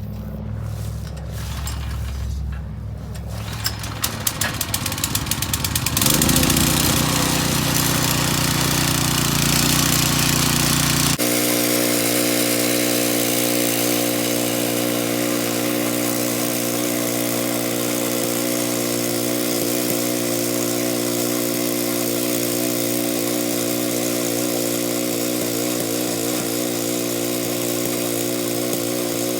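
Small gasoline engine of a garden tiller starting up about six seconds in, then running steadily. Its tone changes abruptly about eleven seconds in and then holds steady.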